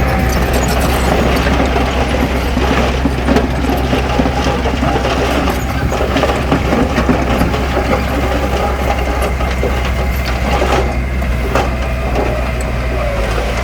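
Heavy diesel construction machinery running with a steady low engine drone, under dense irregular clattering and crunching.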